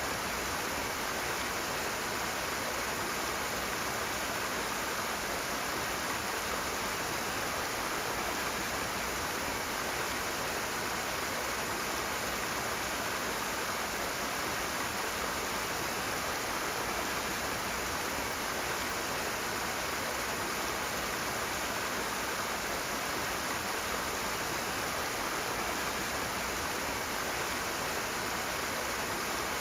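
Rushing water: a steady, even hiss of fast-flowing water with no separate splashes and no changes.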